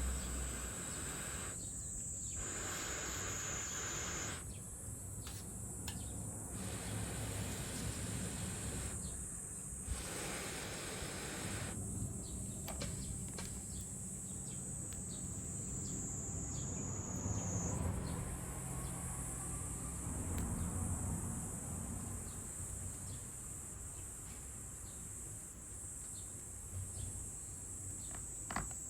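Insects shrilling in a steady, high-pitched drone, with a sharp click near the end.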